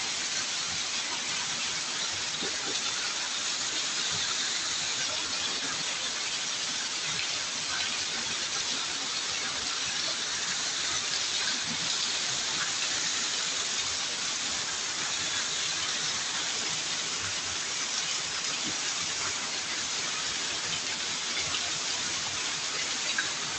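Heavy rain falling in a steady, even hiss, with water pouring off a roof edge onto wet ground.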